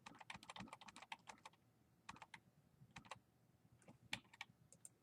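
Faint typing on a computer keyboard: a quick run of keystrokes in the first second and a half, then scattered single clicks.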